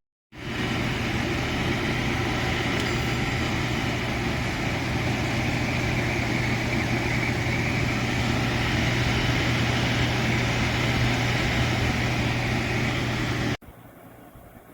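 SereneLife portable air conditioner running: a steady rush of fan air over a constant low compressor hum. It stops abruptly near the end.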